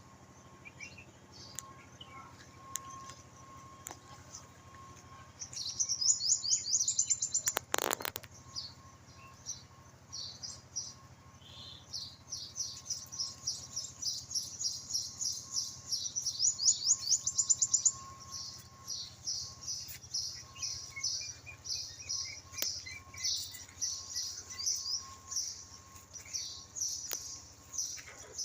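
Small birds chirping in quick, high-pitched runs, starting about five seconds in and going on almost without a break, with a brief rustling burst near the eighth second.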